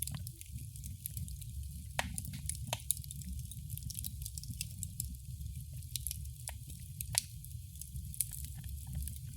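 Wood fire burning in a fireplace: a steady low rumble of flames under irregular crackles and sharper pops, the loudest about two seconds in and just after seven seconds.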